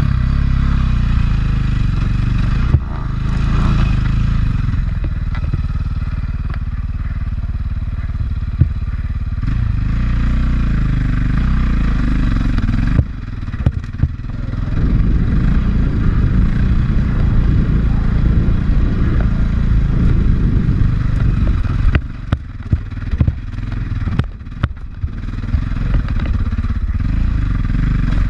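450cc four-stroke single-cylinder dirt bike engine pulling under changing throttle, easing off twice, with sharp knocks and clatter from the bike over rough ground in the later part.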